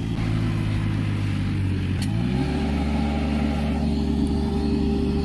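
Mini Sonalika tractor's diesel engine running under load, revving up about two seconds in and then holding at the higher speed. It is labouring to haul a load of paddy straw up an incline it cannot climb.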